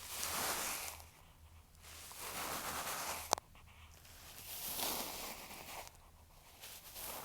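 Fluffy bonten, the down puff on the end of an ear pick, brushed over an earphone microphone in three slow, soft rustling strokes, with one sharp tick about three seconds in.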